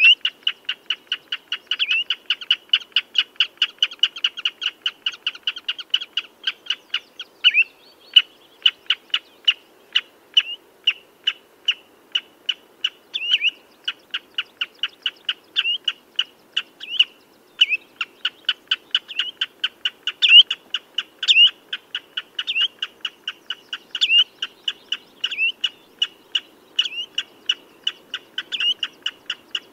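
Common redshank calling: a long, fast series of short, sharp piping notes, several a second, broken now and then by a louder down-slurred note.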